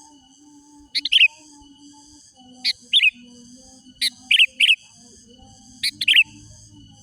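Sooty-headed bulbul (kutilang) giving short, sharp call notes in quick pairs and triplets, about every one to two seconds, over a faint steady high-pitched ringing.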